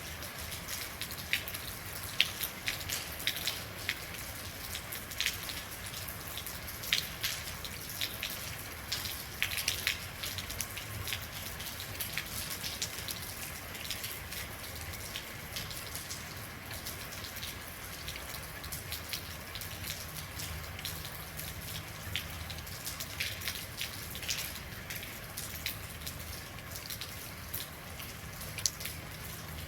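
Real rain falling, a steady hiss with many sharp, irregular drop impacts on a hard surface.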